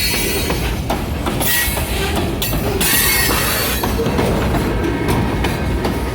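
Kiamichi Railroad freight train rolling past, its car wheels clacking over the rail joints, with a brief wheel squeal about one and a half seconds in.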